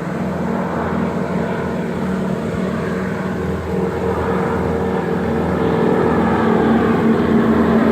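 Radial engines of North American AT-6 Texan propeller trainers droning in flight, a steady pitched note that grows louder as the planes approach.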